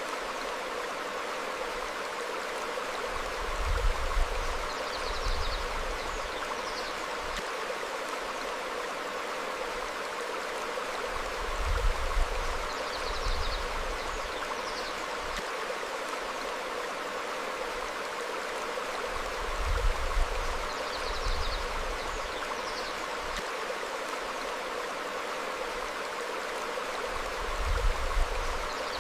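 A small stream flowing steadily over rocks, with a low swell about every eight seconds that is the loudest thing heard. Faint, short, high bird chirps come a few times, repeating on the same eight-second cycle.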